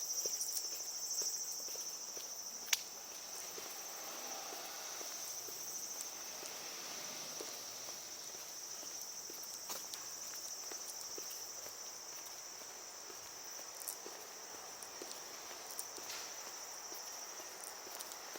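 A steady, high-pitched insect drone, with footsteps ticking underneath and one sharp click about three seconds in.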